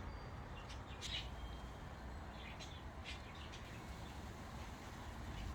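Budgerigars chirping: short, faint chirps scattered through, over a steady low rumble.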